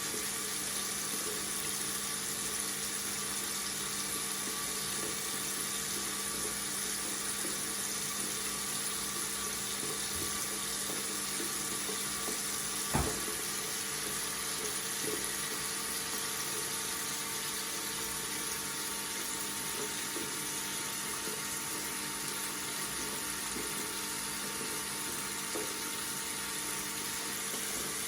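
Tap water running steadily from a faucet into a sink, an even hiss of water. There is a single short click about halfway through.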